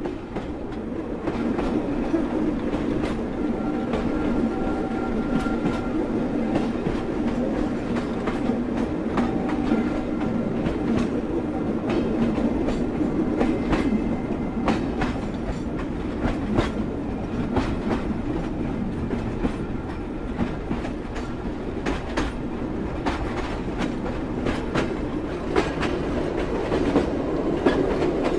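Train running at speed, its wheels clacking over the rail joints in irregular clicks above a steady rumble. The sound rises in level over the first couple of seconds, and a faint whine comes and goes.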